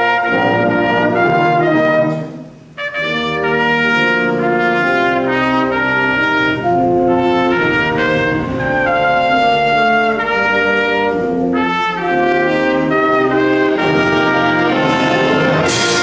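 Concert band playing held chords with the brass to the fore, breaking off briefly about two and a half seconds in and ending on a cymbal-like crash.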